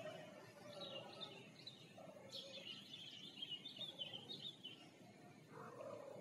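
Small birds chirping and twittering faintly in quick warbling phrases, busiest in the middle of the stretch.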